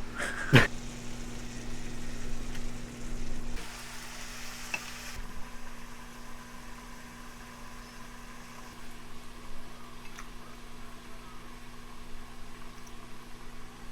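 Food sizzling in a frying pan, an even hiss, with a sharp click about half a second in. A steady hum stops about three and a half seconds in.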